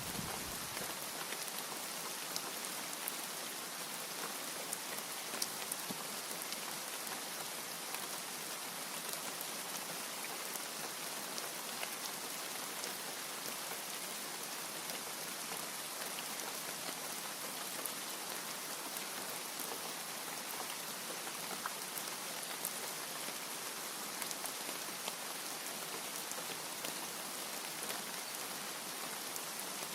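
Steady rain falling, an even hiss of drops. A low thunder rumble dies away in the first second.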